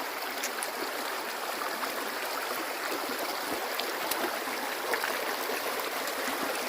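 Creek water running steadily, a continuous babbling rush, with a few faint ticks on top.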